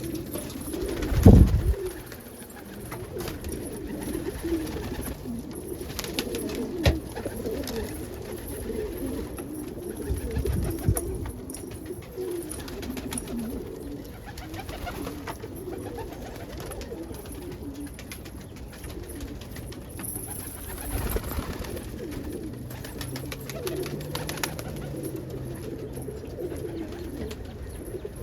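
A flock of domestic pigeons cooing steadily all around, with a loud low thump about a second in and a few scattered clicks.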